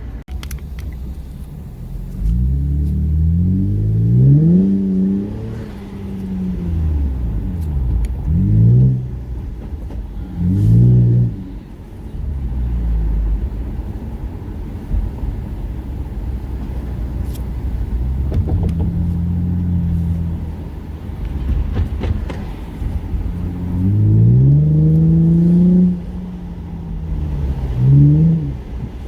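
Car engine accelerating hard several times. Its note rises on each pull and drops back as it shifts or lifts, about six pulls in all over a steady low rumble.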